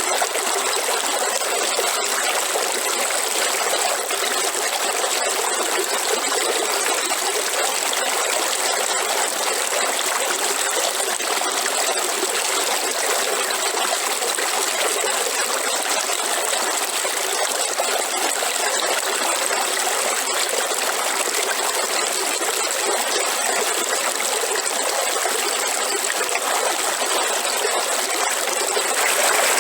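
Waterfall: a steady rush of falling and running water, even throughout.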